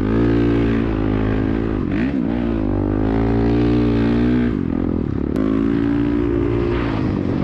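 Dirt bike engine running hard under throttle, its pitch rising and falling as the rider works the throttle. The revs dip about two seconds in and drop again a little past halfway before picking back up.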